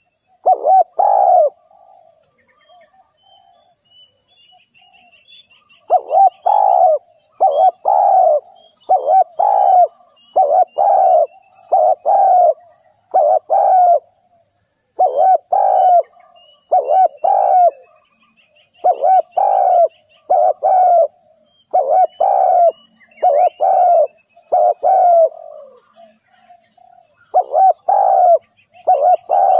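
Spotted dove cooing in a steady series of loud, evenly spaced coos, broken by one pause of a few seconds early on. It is the call of a decoy bird used to lure wild doves. Faint chirps of small birds and a steady high hiss sound behind it.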